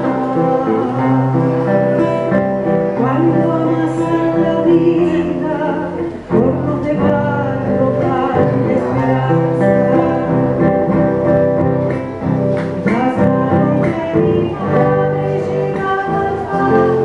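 Music led by guitar, the accompaniment of a song.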